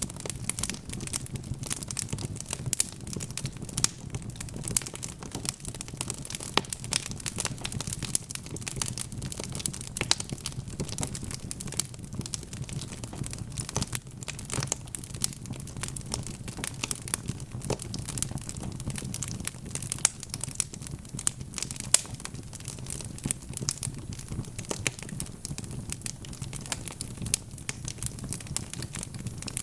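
Wood fire burning in a fireplace: logs crackling and popping in dense, irregular snaps, over a steady low rumble of the flames.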